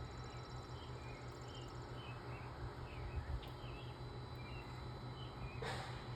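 Small birds chirping in short, scattered calls, with a fast high trill over the first two seconds. A brief rustle comes near the end, over a steady low hum.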